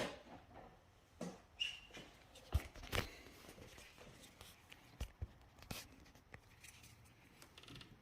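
A few faint, scattered clicks and knocks of objects being handled.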